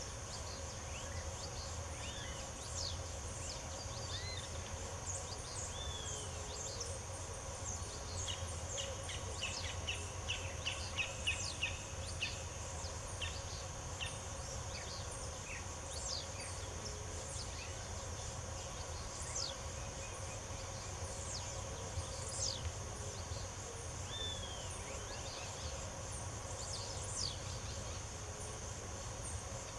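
Birds chirping and whistling over a steady high-pitched insect drone, with a quick run of repeated notes about ten seconds in and a steady low rumble beneath.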